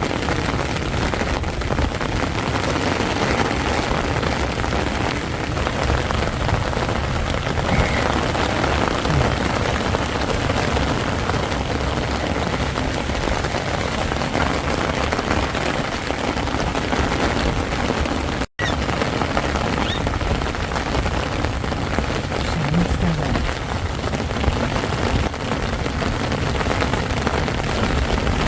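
Heavy rain falling steadily on a tent's fabric, an even patter with no let-up. The sound cuts out for an instant about two-thirds of the way through.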